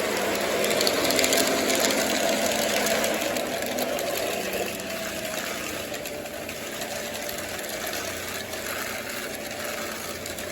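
O-gauge model train running along the track, a steady mechanical whir and rumble from its motor and wheels on the rails. It is loudest in the first few seconds and eases off after about four and a half seconds.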